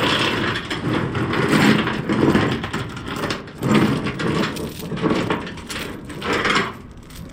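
Cargo securement gear being handled: irregular clattering, scraping and rustling as a strap and its metal hook are pulled out and handled.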